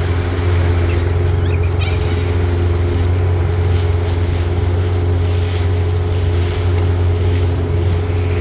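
Boat motor running steadily, a low even hum with wind rushing across the microphone.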